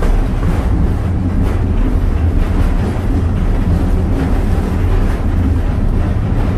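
Steady low rumble of a passenger train under way behind a steam locomotive, the coach rolling along the track.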